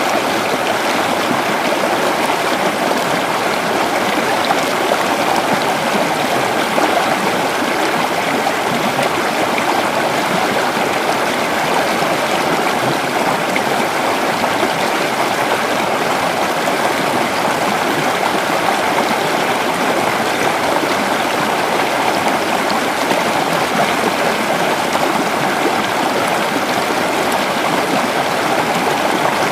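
Creek water flowing and babbling over rocks, a steady rushing with no pauses.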